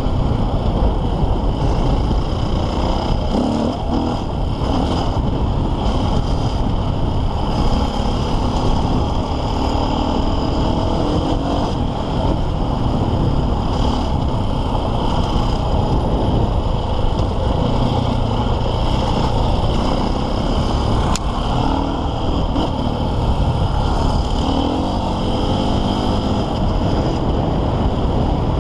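The single-cylinder four-stroke engine of a KTM 450 EXC enduro bike running hard while being ridden off-road, its revs repeatedly rising and falling with the throttle, over a constant rough wash of noise.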